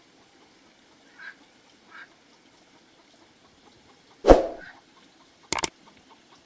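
Domestic fowl calling: a couple of faint short calls, then one loud call just after four seconds in, followed by two sharp clicks.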